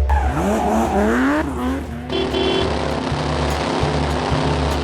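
A motor vehicle engine sound effect revving up in rising sweeps over the first two seconds, then running steadily with a rushing noise.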